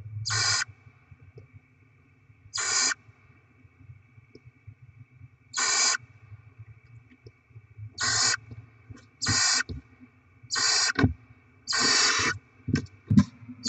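Barn owl chicks giving their hissing, rasping begging calls: about seven half-second hisses that come faster toward the end, over a faint steady electrical hum from the nest camera. A few short clicks come near the end.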